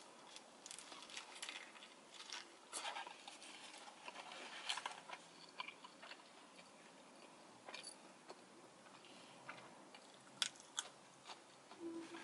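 Close-up eating sounds: biting into and chewing a lettuce-wrapped chicken burger. The crisp lettuce crunches in short, irregular bites and chews.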